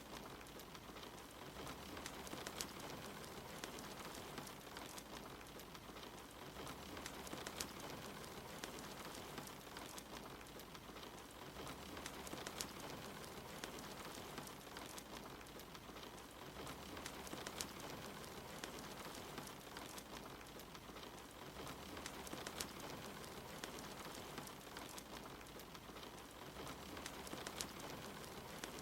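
Soft steady rain hissing, mixed with a wood fire crackling in a fireplace, with scattered sharp pops and ticks.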